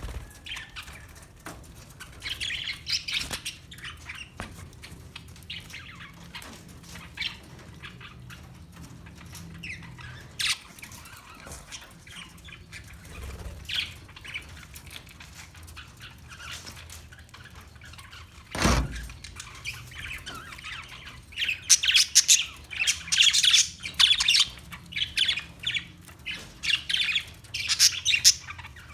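Parakeets chirping and squawking: scattered calls at first, then a busy run of loud chirps through the last third. A single thump comes a little before the chirping picks up.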